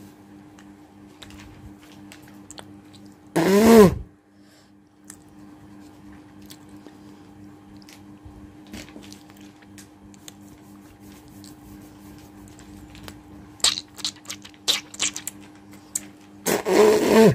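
A woman hawking loudly from the throat twice, about three seconds in and again at the end, each a harsh rasp falling in pitch, with a run of wet mouth clicks shortly before the second. A steady low hum runs underneath.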